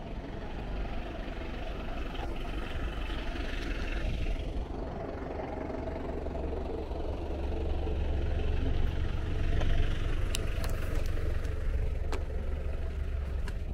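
A motor vehicle's engine running close by, a low steady rumble that swells through the middle and eases near the end, with a few light clicks.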